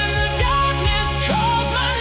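Hard rock music: a distorted electric guitar playing a lead line with bends and slides over bass and drums.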